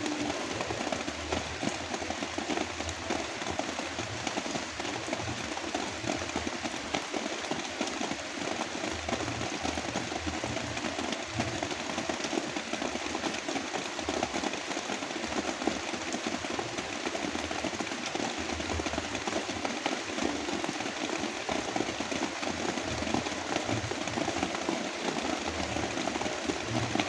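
Heavy rain falling as a steady, dense patter, blended with a continuous brown-noise hiss.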